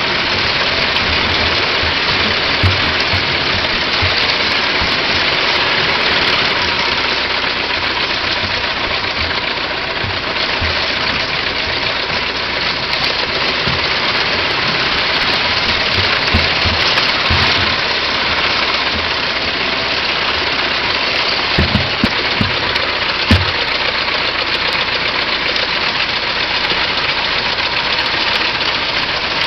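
1909 Ford Model T's four-cylinder side-valve engine running steadily, with a few short low thumps a little past the middle.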